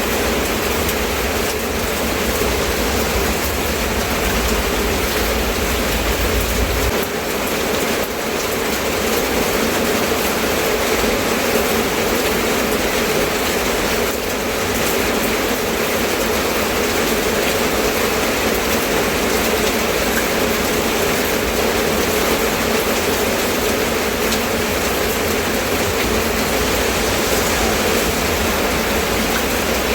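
Steady rain falling, an even hiss without breaks. A low rumble underneath stops about seven seconds in.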